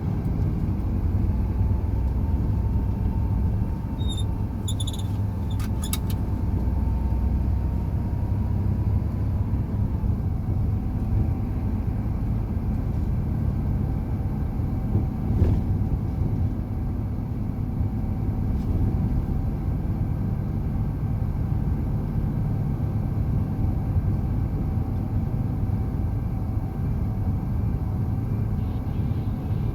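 Truck driving on a winter road: a steady low engine and road rumble, with a faint whine that climbs slowly and drops about ten seconds in.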